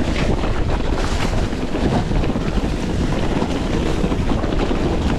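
Heavy wind buffeting an action camera's microphone, a steady rumbling rush of noise with no break.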